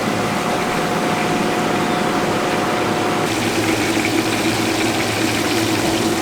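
Steady machine hum with a hiss, holding a constant pitch that shifts to a different note about three seconds in.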